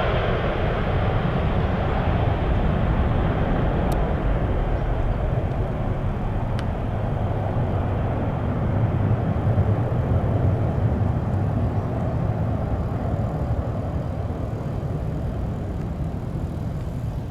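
Boeing 747-400F freighter's four turbofan engines at takeoff power as it climbs away, a low rumbling roar whose higher part slowly dies away.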